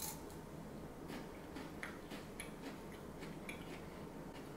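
Faint, irregular crunchy clicks of someone chewing a Kit Kat wafer bar.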